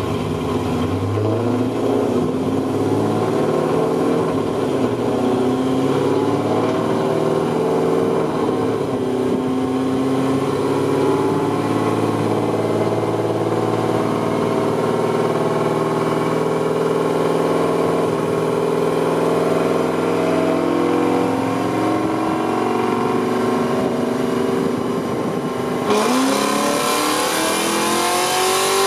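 Pontiac G8 GT's 6.0 L V8 running hard, its pitch climbing slowly and steadily for more than twenty seconds. About 26 seconds in the pitch drops and then climbs steeply, noticeably louder.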